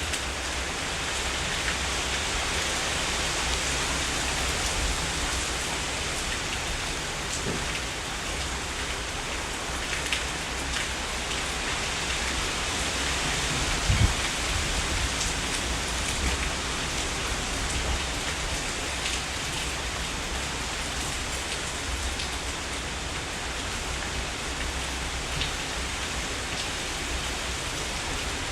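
Heavy rain falling steadily, with scattered drop ticks and a brief low thump about halfway through.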